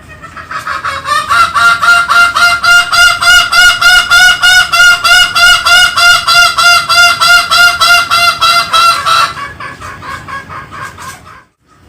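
Green junglefowl calling: a long, loud run of rapidly repeated notes, about five a second, which starts about a second in, breaks off after about eight seconds and trails into fainter repeats.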